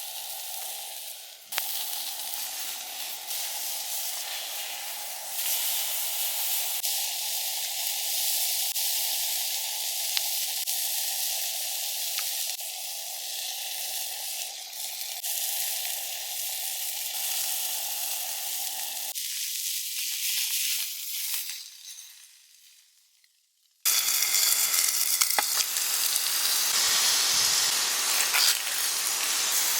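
Food sizzling as it fries in a pan. The sizzle fades almost to nothing a little over 20 seconds in, then cuts back in louder about two seconds later.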